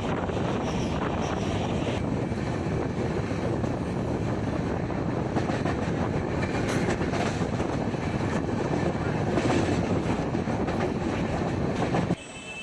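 Train running on the rails, a steady loud rumble and rattle of the carriages with some wind noise, cutting off abruptly near the end.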